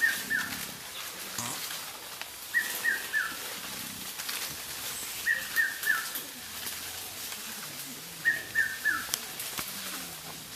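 A bird calling a phrase of three short falling notes, repeated four times about every three seconds, over faint rustling.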